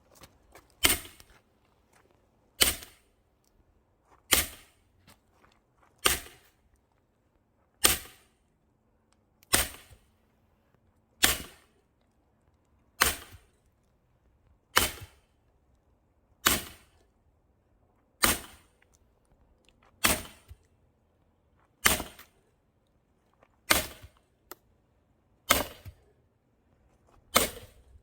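Axe strikes splitting dry firewood: sixteen sharp cracks at a steady pace of about one every 1.8 seconds, each followed by a smaller knock.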